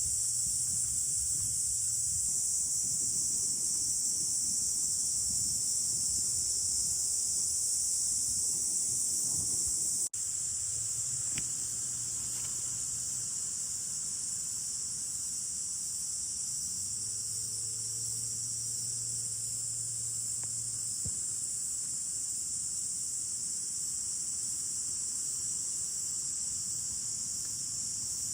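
A steady, high-pitched insect chorus chirring without a break, over a low rumble. The sound drops out for an instant about ten seconds in.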